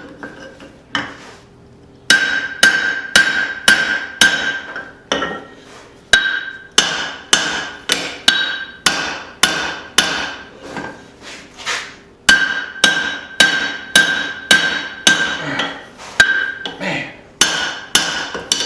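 Hand-hammer blows on a hot steel hammer-head blank on the anvil, driving a hammer drift into the punched eye. The steady strikes come about two a second, each with a ringing note. There is a short pause about a second in and another near six seconds.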